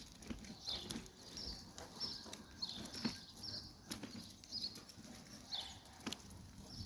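A small bird repeating short, high, downward-curving chirps roughly once a second, with scattered faint clicks.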